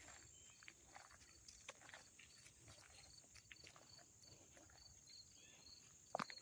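Quiet woodland ambience: scattered small rustles and clicks of movement through leaf litter, with a sharper crunch near the end, over a faint steady high-pitched tone and a regular series of short high chirps.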